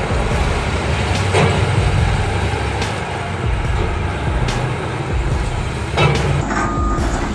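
Heavy diesel machinery running with a steady rumble, with a few knocks. A reversing alarm starts beeping near the end.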